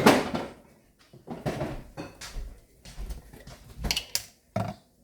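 Kitchen clatter: dishes and utensils knocked and set down, a series of separate knocks and clinks, the loudest at the very start.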